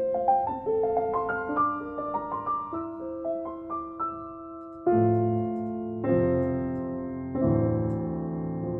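Background piano music: a run of single notes, then sustained chords struck slowly from about halfway through.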